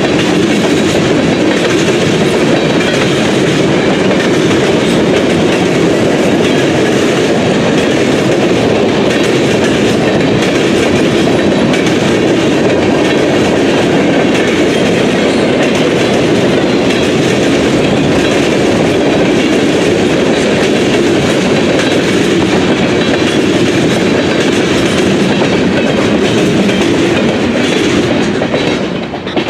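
Railroad cars rolling past on the track: a loud, steady noise of steel wheels on rail that drops away near the end.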